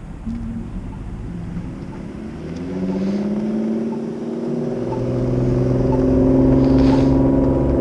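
A motor vehicle's engine accelerating close by, rising slowly in pitch and growing louder through the second half. Under it a pedestrian push-button signal ticks about once a second.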